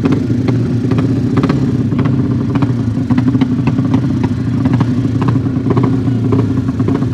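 Motocross bike engines running steadily at a low, even pitch, with many short clicks and clatters over the top.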